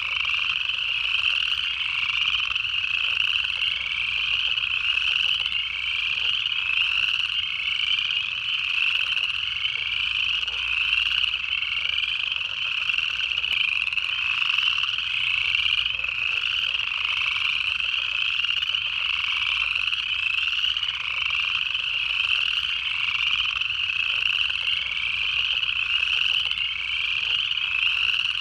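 Dense chorus of upland chorus frogs, their short rising trills repeating and overlapping continuously.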